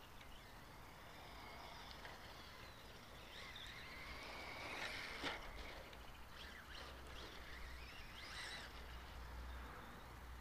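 Faint whine of a Team Associated RC10 electric stadium truck's motor, rising and falling in pitch as the truck speeds up and slows around the track, with one sharp knock about five seconds in.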